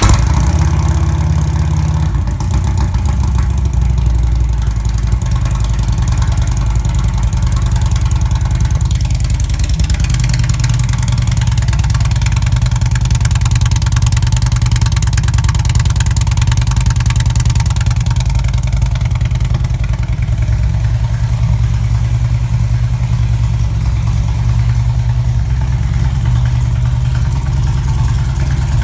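Harley-Davidson motorcycle's V-twin engine on a cold start, catching right at the start and running heavier for the first couple of seconds before settling into a steady idle.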